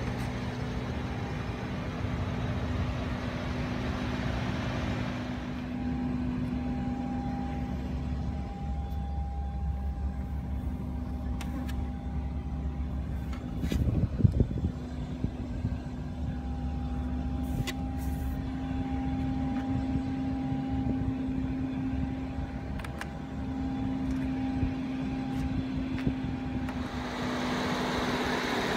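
Rolls-Royce Wraith's twin-turbo V12 idling with a steady low hum. There are a few light clicks, and about halfway through a brief louder rustle and bump of handling close to the microphone.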